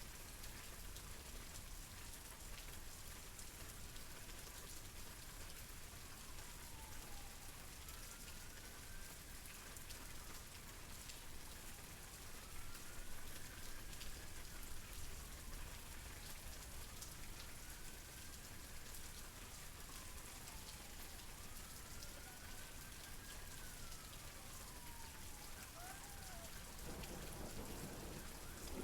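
Steady rain falling, heard as an even hiss. Behind it a faint tone slowly rises and then falls again, repeating every three or four seconds. Near the end a low rumble of thunder begins.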